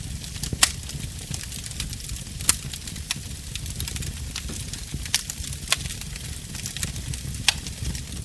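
Wood fire in a fireplace crackling steadily over a low rumble of flame, with frequent small clicks and about five louder sharp pops.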